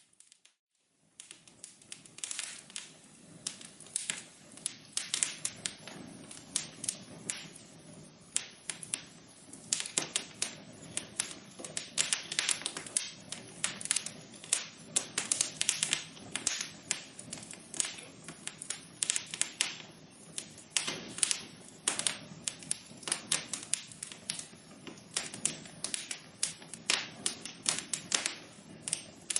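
Wood fire in a fireplace crackling and popping: a dense, irregular run of sharp snaps over a low hiss of burning. The sound cuts out briefly at the start and resumes about a second in.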